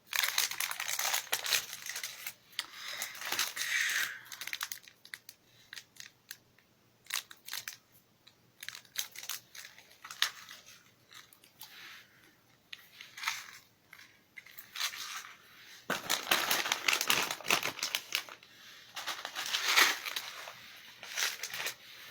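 Plastic snack packets crinkling and rustling as they are handled and set down, in irregular bursts: busy at the start, sparse in the middle, busy again in the last several seconds.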